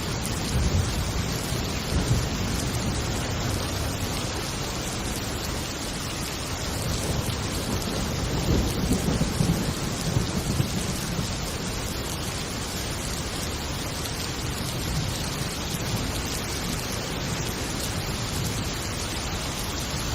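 Heavy, steady rain with thunder rumbling in low swells twice, about a second or two in and again around the middle.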